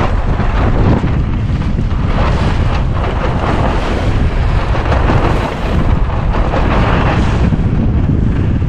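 Strong gusty wind buffeting the microphone in a loud, steady rumble, with the rush of water and waves against a sailing dinghy's hull swelling and easing every second or two.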